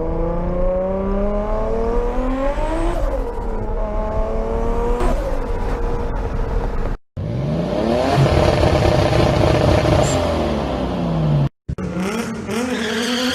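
Toyota Supra's 2JZ straight-six accelerating hard: the engine note climbs, falls back at a gear change about three seconds in, climbs again and falls near five seconds. After a sudden cut the pitch sweeps down and up again, and after a second cut near the end it climbs once more.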